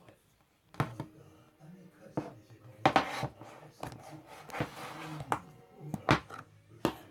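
Handling noises: a series of sharp clicks and knocks, with short rustling or rubbing sounds between them, over a faint low hum.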